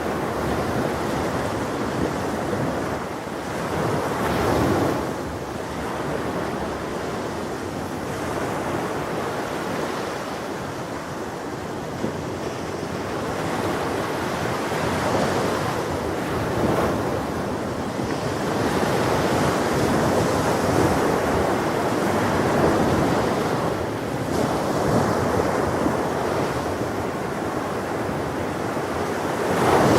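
Ocean waves breaking and washing on a shore, a continuous surf that swells and recedes every few seconds, with one stronger surge near the end.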